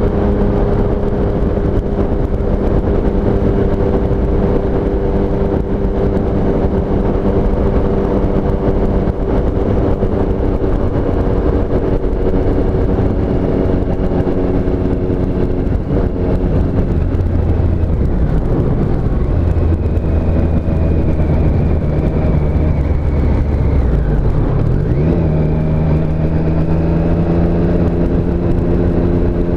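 2017 Triumph Street Triple S's 765 cc inline-triple engine running under way, with a steady rushing noise underneath. The engine note drops about halfway through, dips sharply and comes back up near the end, then slowly rises.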